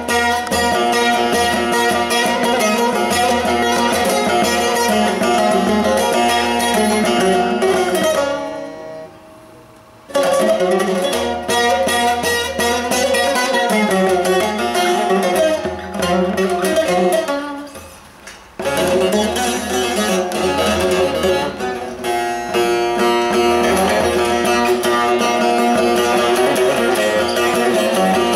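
Carved mulberry-bowl bağlama (long-necked Turkish saz) being played, with fast plucked phrases. Twice the playing stops and the strings ring out before the next phrase comes in.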